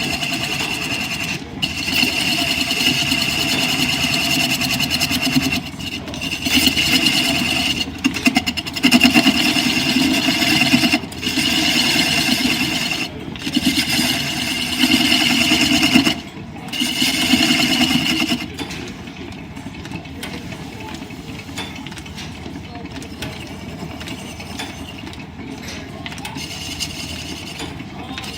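Wood being turned on a line-shaft-driven lathe: the cutting tool scraping against the spinning wood in a run of passes a few seconds long with brief breaks, then, about two-thirds of the way through, only the steady running of the lathe and line shaft with no cutting.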